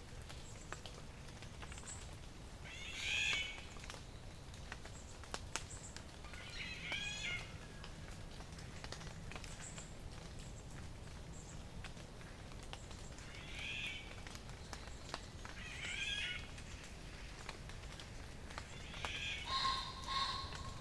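A songbird singing short phrases of several quick notes, five times a few seconds apart, the last one the longest, with faint high chips from other birds in between.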